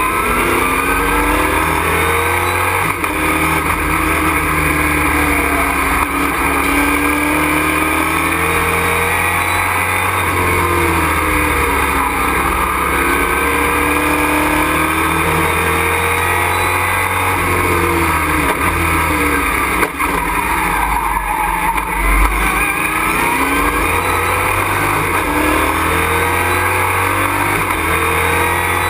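Race truck's engine heard from inside the cockpit at racing pace. It revs up and drops back again and again through the gears, over steady road and wind noise.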